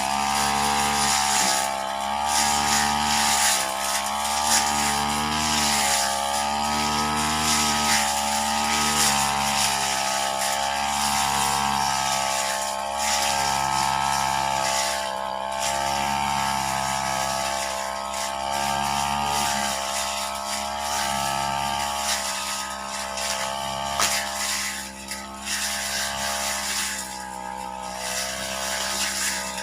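Brush cutter engine running at high speed, its pitch rising and falling over and over, with a few deeper dips near the end.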